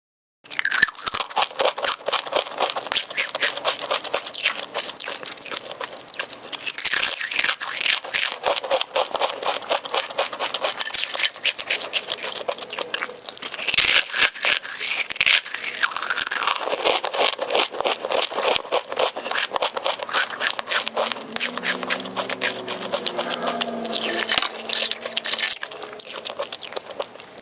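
Loud, rapid crunching and chewing of a chaat made of Kurkure corn puffs and Lays potato chips, eaten fast in big mouthfuls; it starts about half a second in.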